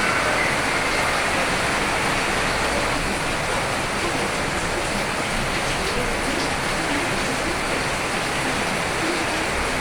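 Rain falling steadily, an even hiss of water with no single drops or other events standing out.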